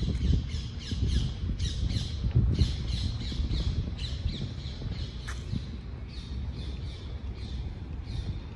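A bird calling over and over: quick runs of short, harsh, falling squawks, several a second with brief pauses between runs, over a steady low rumble.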